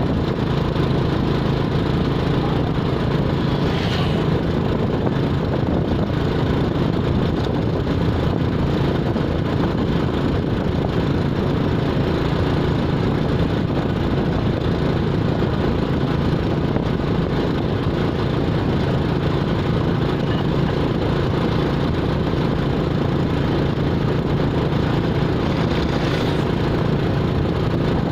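A vehicle engine running steadily with a constant low hum, with two faint brief noises about four seconds in and near the end.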